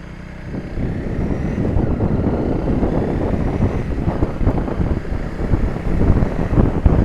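Motorcycle riding along, its engine mixed with heavy wind noise on the microphone, getting louder about half a second in.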